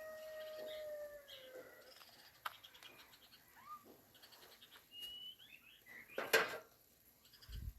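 Birds calling: a long held call that falls in pitch and ends in the first two seconds, then short chirps and rising and falling tweets. There is a light click about two and a half seconds in and a short loud sound a little after six seconds.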